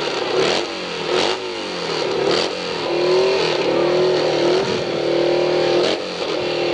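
Pro hillclimb motorcycle engine revved in a run of quick throttle blips, then held at high revs for a few seconds, its pitch shifting a little.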